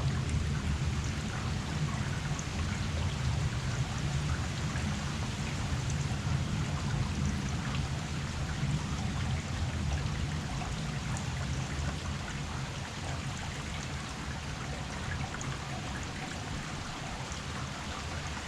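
Heavy rain falling steadily, with scattered drops ticking over an even hiss and a low rumble underneath.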